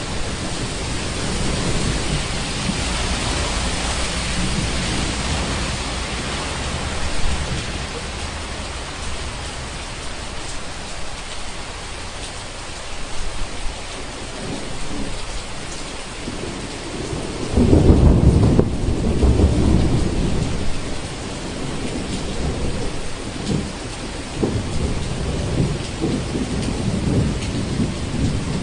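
Thunderstorm: steady heavy rain, with a loud low roll of thunder about two-thirds of the way in and lighter rumbles after it.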